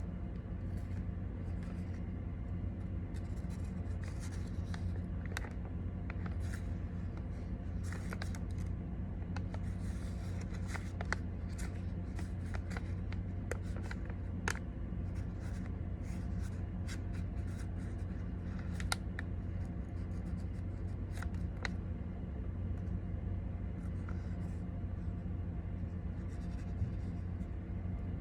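A sheet of origami paper being folded and creased by hand: soft rustling and crinkling with many small crisp clicks scattered throughout, over a steady low hum.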